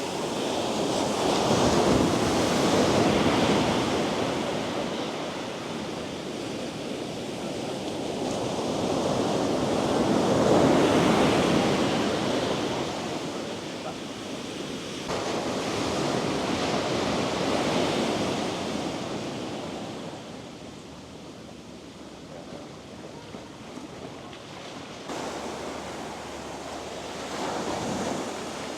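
Sea waves breaking and washing on the beach, the surf swelling and fading slowly several times and quieter near the end.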